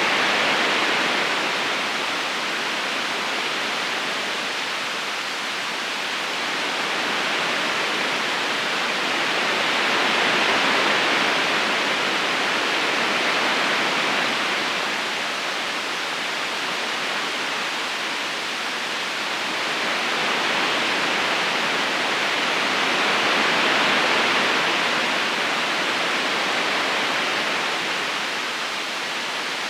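River current rushing steadily over stones, a constant water noise that swells and eases slowly every ten seconds or so.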